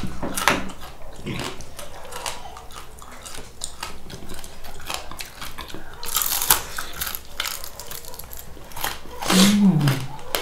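Close-up eating sounds of fried chicken being bitten and chewed: a run of small crunches and crackles, with a short hummed voice sound near the end.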